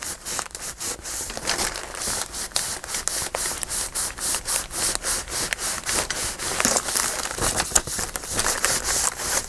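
Hand rubbing down a freshly glued piece of paper on a journal page to make it hold: a quick, even run of short rubbing strokes on paper.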